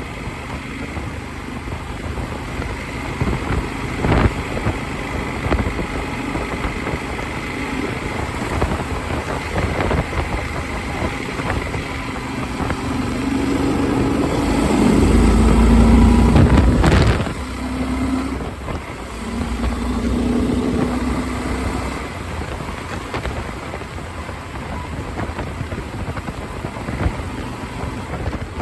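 Motorcycle riding, heard through a helmet-mounted phone's microphone: continuous wind rush over the mic with the engine running underneath. About halfway through, the rush and a low engine note swell loud for a few seconds, then ease back.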